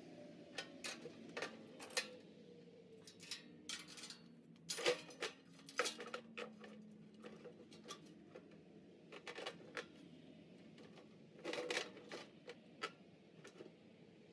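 Irregular metallic clicks, clinks and knocks from tools and small metal parts being handled, with a denser cluster of knocks about five seconds in and again near twelve seconds.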